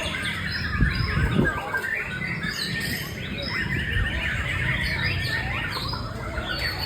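White-rumped shama (murai batu) singing: a fast, unbroken run of short varied chirps and whistles mixed with harsher squawking notes. A couple of dull low thumps come about a second in.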